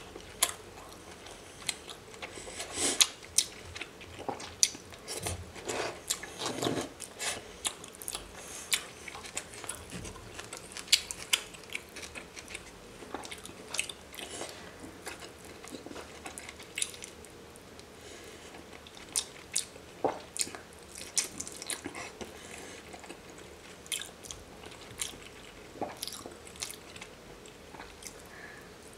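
Close-miked eating sounds: chewing and biting raw salmon sashimi, with frequent sharp wet mouth clicks and smacks at an irregular pace.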